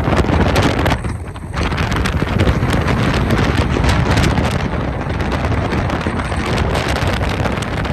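Hurricane wind gusting hard against the microphone, a loud rushing and buffeting that eases briefly about a second in, then picks up again.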